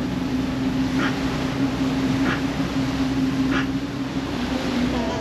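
Tour boat's engine running with a steady hum under wind and water noise, with a short faint sound repeating about every second and a quarter.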